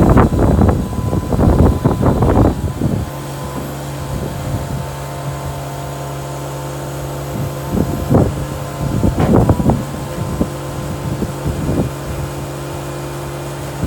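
CAT 226B skid steer's diesel engine running. It is loud and uneven with clattering knocks for the first three seconds, then settles into a steady hum, with a few short louder bursts around the middle.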